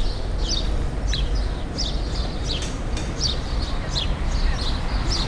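Small birds chirping, short falling chirps about twice a second, over a steady low outdoor rumble.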